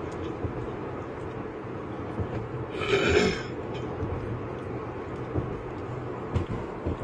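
Steady vehicle and road noise, with a brief loud burst about three seconds in.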